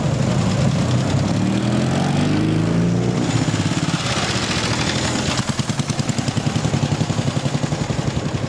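Vintage motorcycle engine running: its revs rise about two seconds in, then it settles into a rapid, even firing beat.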